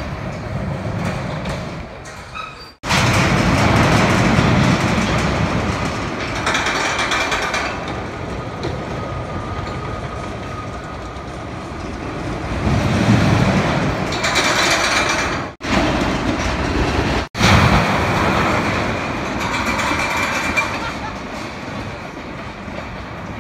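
Hurricane wooden roller coaster train rumbling and clattering along its track, loud and continuous, with a few swells. The sound cuts out abruptly three times for a moment.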